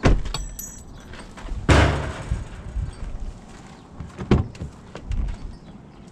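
A pickup truck door being handled: a sharp clunk, light metallic clinks, then a heavy door thump about two seconds in, followed by a few lighter knocks.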